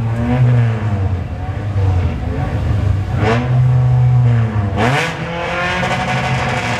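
Naturally aspirated Honda Civic Si's 2.0-litre four-cylinder K20, fitted with Skunk2 cams, revved in place at the drag strip start line. Sharp rev blips come about three and about five seconds in, and after that it holds a steady, higher-pitched note.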